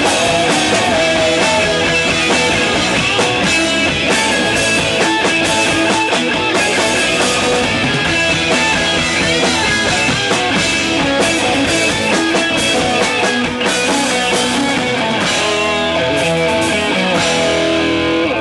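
Loud rock music: electric guitars and a drum kit playing a full-band song, which cuts off suddenly near the end.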